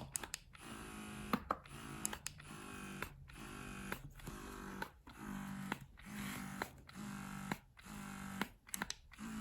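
BellaBaby wearable breast pump running in suction mode. Its motor hums in even pulses about once a second, each pulse broken by a short gap and a click.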